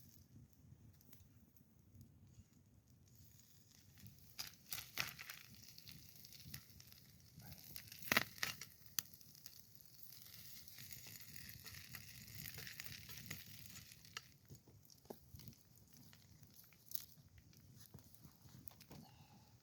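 Campfire crackling and popping, with food hissing in a pan for about ten seconds in the middle and a sharp snap about eight seconds in.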